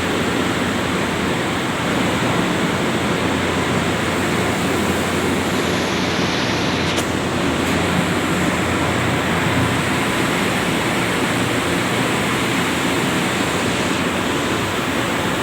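Ship's engines running in the engine room: a steady, loud mechanical din with a low hum under dense noise.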